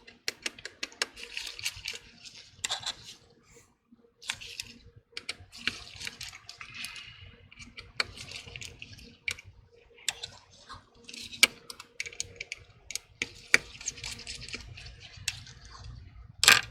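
Small repair tools working inside an opened iPhone 12: a scatter of sharp little clicks and short scratchy scrapes of metal and plastic on the phone's screws, brackets and connectors, with one louder brief scrape near the end.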